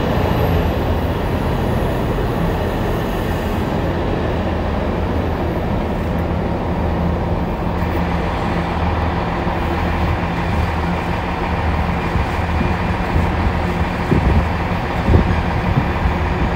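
Train running past at a steady pace, with an even low rumble and drone throughout and a couple of sharp knocks near the end.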